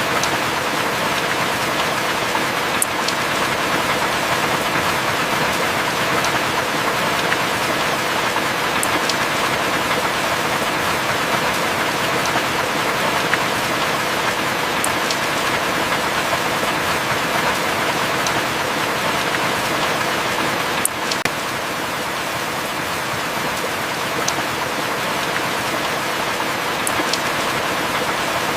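Heavy rain falling steadily, with a few sharp single drip ticks scattered through it, the strongest about two-thirds of the way in.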